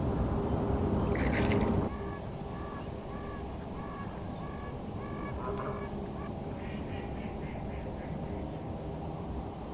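Waterfowl honking in a steady run of evenly spaced two-note calls, about two a second, for several seconds. Thin high chirps from a small bird follow near the end. Before that, a louder stretch of rough noise ends abruptly about two seconds in.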